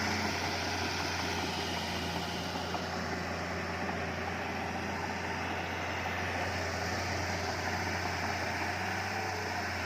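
Diesel engine of heavy earth-moving equipment running steadily, a constant low hum with no clear knocks or revving.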